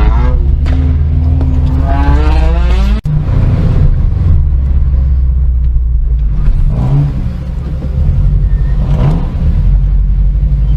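Car engine accelerating: its pitch climbs for about three seconds and breaks off sharply. A heavy low rumble follows, with short rising revs twice more.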